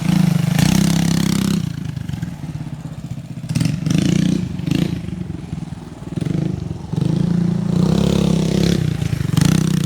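Mini bike engine revving up and easing off repeatedly as the bike is ridden around a dirt track, with three louder surges: at the start, about four seconds in, and again for a couple of seconds near the end.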